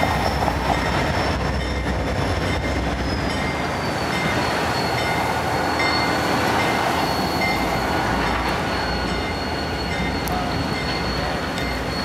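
Canadian National diesel freight locomotive and its train rolling slowly past, a steady low rumble of engine and wheels on rail. A thin high squeal runs through it and dips slightly in pitch about three to four seconds in.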